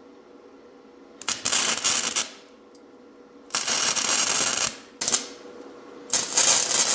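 Electric arc welder laying short tack welds on a steel frame: three crackling bursts of about a second each and one brief one, the arc striking and stopping between them.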